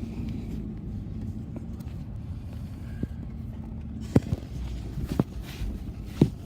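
Car driving, heard from inside the cabin: a steady low rumble of engine and road, with a few sharp knocks in the second half.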